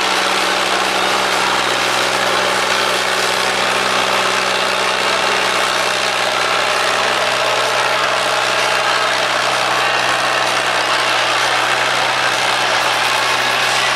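Ford 3600 tractor's engine running loud at a steady speed, its pitch holding constant throughout.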